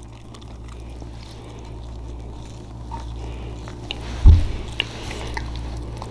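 Close-miked chewing and mouth sounds from eating French fries, with small wet clicks and one loud low thump a little past four seconds in.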